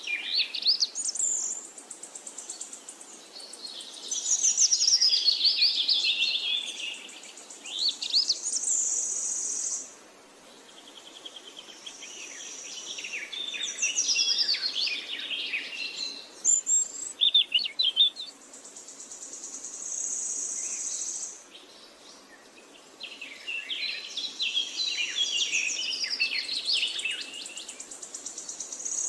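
Parakeets chattering and warbling in bouts: quick chirps mixed with drawn-out, buzzy high notes, with brief lulls between bouts.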